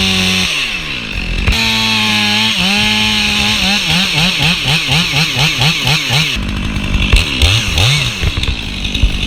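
Chainsaw running at high revs, held steady at first, then revved up and down about twice a second while it cuts, before settling unevenly near the end.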